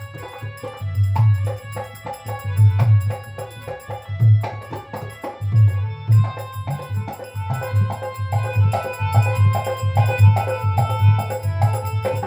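Instrumental interlude of live devotional shabad music: a hand drum keeps a steady beat with jingling percussion, under pitched notes pulsed in rhythm that grow stronger about halfway through.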